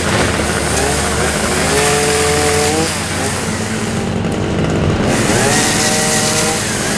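Chainsaw revving up twice, each time rising in pitch and holding at high speed for a second or two, over a steady low engine hum.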